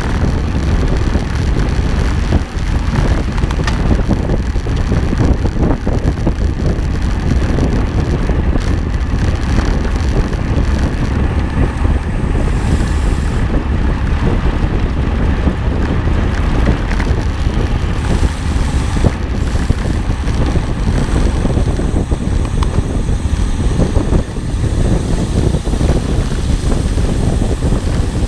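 Wind buffeting the microphone: a loud, steady low rumble with no clear rhythm.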